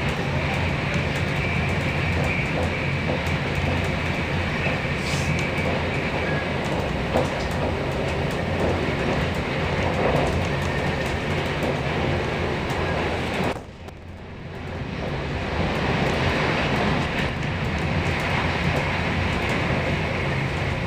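Passenger train running, heard from inside the carriage: a steady rumble of wheels on rails with a low hum. About two-thirds of the way through, the sound drops away sharply for about a second and then builds back up.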